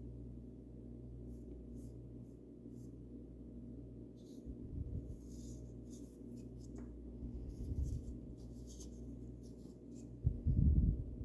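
Paintbrush strokes brushing paint onto a birdhouse: short, soft scratchy swishes in clusters over a steady low hum. Occasional low bumps, the loudest near the end.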